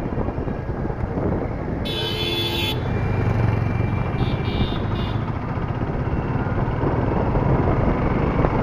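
Suzuki Gixxer SF's single-cylinder engine running at low speed, with wind noise on the bike-mounted microphone. A vehicle horn honks about two seconds in, with a couple of shorter toots around four to five seconds.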